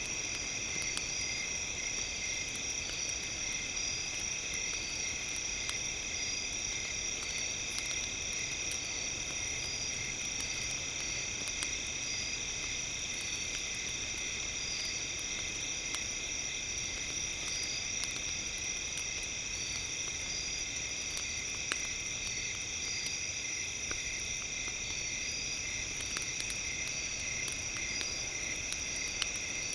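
Steady high-pitched chorus of calling insects and frogs, with pulsing trills repeating throughout. Faint, scattered crackles from a campfire sound over it, with a couple of sharper pops near the end.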